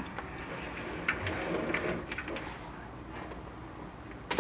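A few light clicks and taps over faint background noise, typical of an inspection camera and its cable being handled and moved down a chimney into the smoke chamber.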